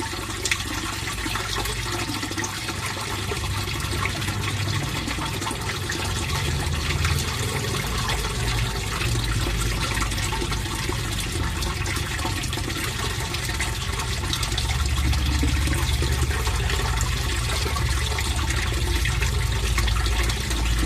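Fish pond water flowing and trickling steadily, with a low rumble underneath that grows louder about two-thirds of the way through.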